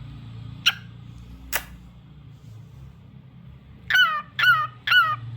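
Cockatiel calling: two sharp short chirps, then a quick run of four whistled calls starting about four seconds in.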